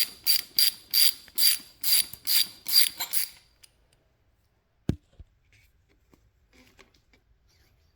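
Ratchet wrench worked back and forth in quick strokes, about three ratcheting strokes a second, stopping a little over three seconds in. A single sharp knock follows near five seconds, then a few faint small clicks.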